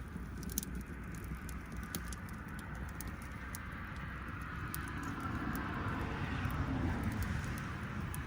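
Wood bonfire crackling, with many sharp irregular pops over a steady rush of burning that grows a little louder past the middle.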